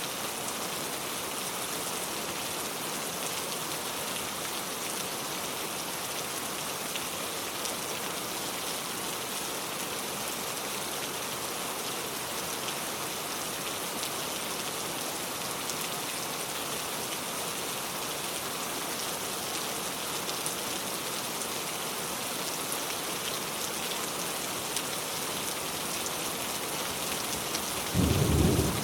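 Steady rain falling on a car, an even hiss with many fine drop ticks. A sudden low rumble comes in near the end and is the loudest thing.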